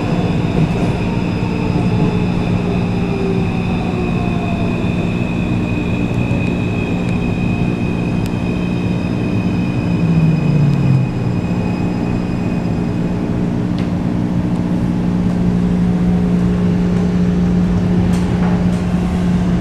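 Taipei Metro C341 train running on the line: steady rumble and drone of the car, with motor whines falling in pitch over the first few seconds as it slows. A high tone fades out about 13 seconds in.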